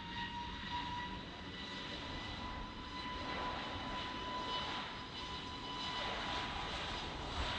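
Airbus A320 jet engines running, a steady high whine over an even rush and low rumble.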